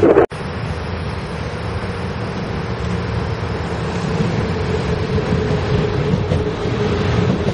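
Taiwan Railway EMU400 electric commuter train approaching and running past close by, a steady rumble of wheels and running gear on the rails. The sound breaks off sharply for an instant about a quarter second in.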